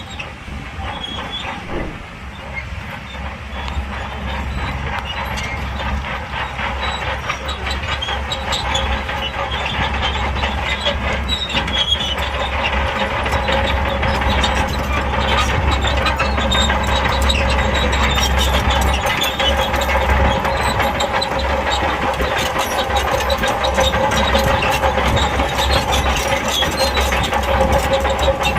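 SHANTUI crawler bulldozer's diesel engine working under load, with the dense clanking and rattling of its steel tracks, growing steadily louder.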